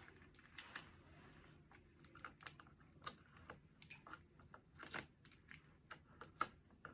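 Faint, irregular crinkles and small clicks of plastic packaging and items being handled, with a few louder crackles about five seconds in and near the end.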